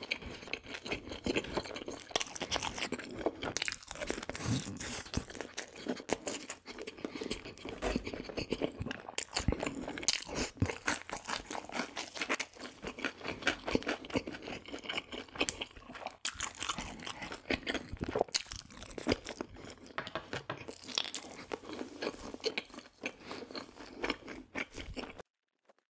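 Close-up crunching and chewing of crispy fried food, with irregular loud bites. The sound cuts off suddenly near the end.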